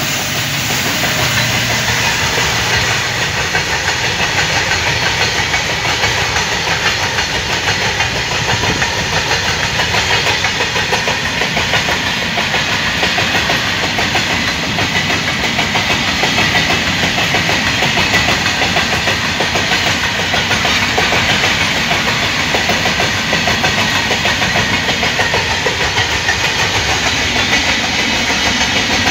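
A loaded freight train's covered cement wagons rolling past at speed: a steady rumble with wheels clattering over the rail joints. In the first second or so the diesel engine drone of the departing twin WDG-4D locomotives fades out.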